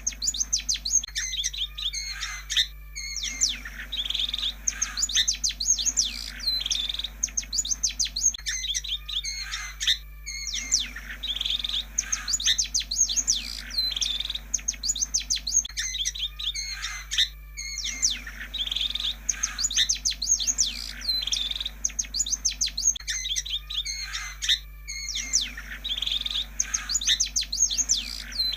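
Long-tailed shrike (pentet) singing a rapid, varied chatter of chirps and whistles, in bouts of about five to six seconds broken by short pauses, over a steady low hum. It is a lure recording ('pancingan') meant to get a reluctant pentet to start singing.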